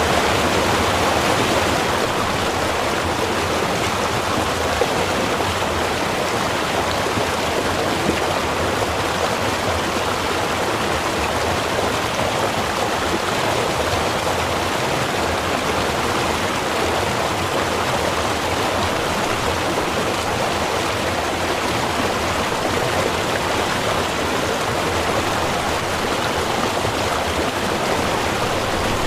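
Small river or stream of running water flowing steadily, a continuous even rush with no distinct splashes, a touch louder in the first couple of seconds.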